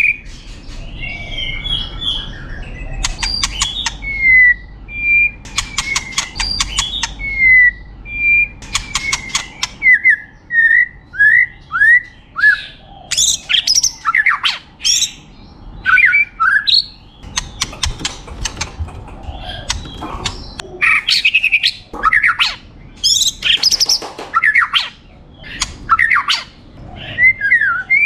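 White-rumped shama singing a long, varied song of clear whistled notes and slurred phrases, broken by several bursts of rapid rattling clicks.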